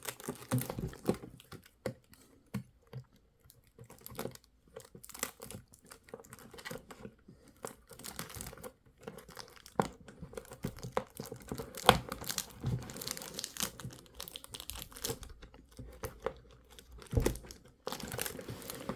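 Toy packaging being torn open and crinkled, with scattered small clicks and knocks of plastic parts being handled.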